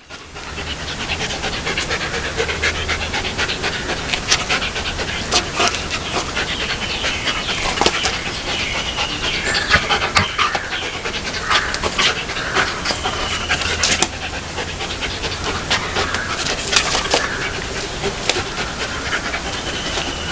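A dog panting hard and continuously, mixed with irregular sharp clicks and rustling.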